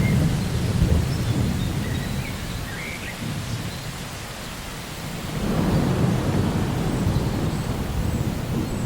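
Steady rain with low rolling thunder: one rumble fades over the first second or so and another swells about five and a half seconds in. Birds give a few short chirps in the first three seconds.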